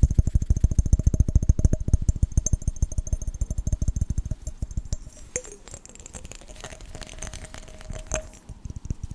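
Rapid fingertip tapping on a glass jar, many quick dull taps a second, giving way about halfway through to quieter handling with light clinks and a brief ring of the glass.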